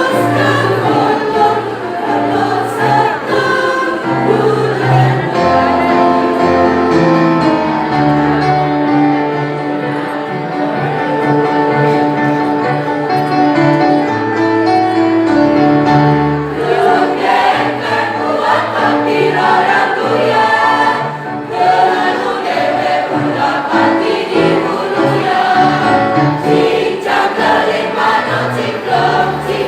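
A choir singing in harmony, with long held chords.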